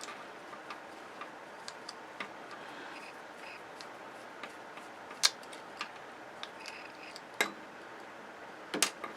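Scattered light clicks and taps of hand tools and parts being handled while a flat-screen television is taken apart, with a few sharper clicks about five, seven and a half, and nine seconds in.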